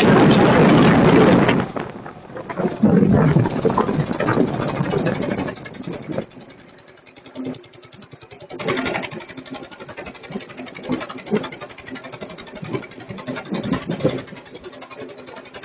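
Motorcycle engine running, loud for the first five seconds or so, then dropping to a much quieter, steady idle from about six seconds in.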